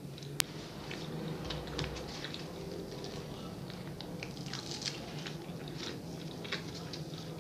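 Close-miked mouth sounds of chewing and biting a soft peta de queijo (cheese biscuit ring), with short crackly ticks and the soft dough tearing. A single sharp click about half a second in, over a steady low hum.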